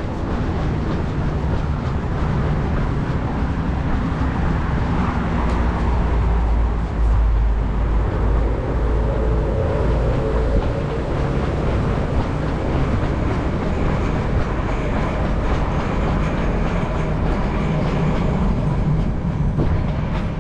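Train running past, a steady low rumble that is loudest from about six to ten seconds in.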